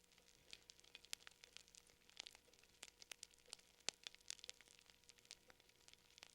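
Fire crackling quietly: irregular sharp pops and snaps, a few seconds apart to several a second, the loudest a little before four seconds in.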